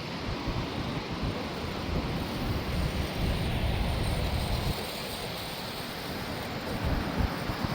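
Wind buffeting the microphone outdoors: an uneven low rumble under a steady hiss, with no clear motor tone.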